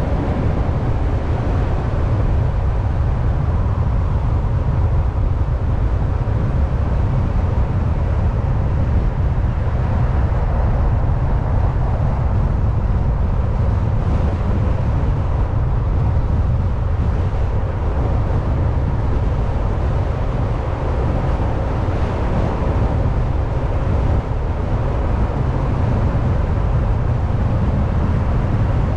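Car driving at highway speed: steady low road and engine rumble from the tyres and drivetrain, with a faint steady hum above it and no change in pace.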